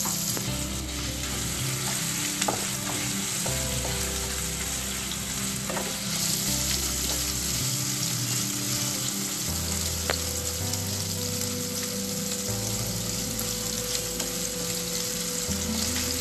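Marinated paneer cubes sizzling steadily in hot oil in a nonstick pan, stirred with a wooden spatula, with a few light taps of the spatula on the pan.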